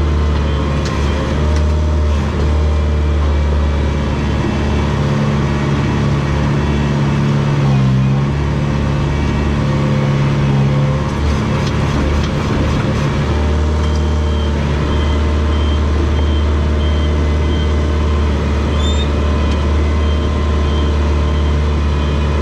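Komatsu DP21 bulldozer's diesel engine running steadily under load as it pushes fill, its pitch shifting slightly a few times. A faint repeated high beep sounds over it, stronger in the second half.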